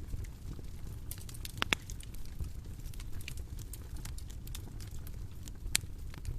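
Bonfire crackling: a low steady rumble of flames with scattered sharp pops, the loudest about one and a half seconds in and again near the end.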